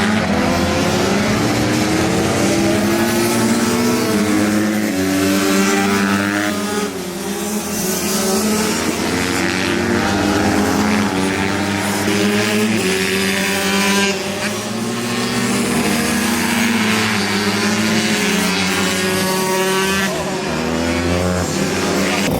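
A pack of racing minibikes going round the track, several small engines revving hard and shifting pitch over and under one another.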